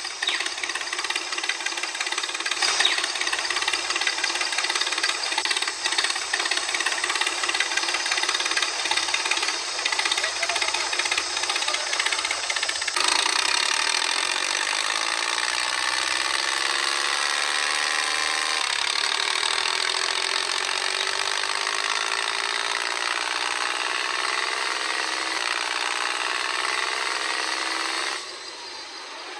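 A motor runs steadily and mechanically. About halfway through it changes suddenly to a pitched running sound that slowly rises over several seconds, then it drops much quieter near the end.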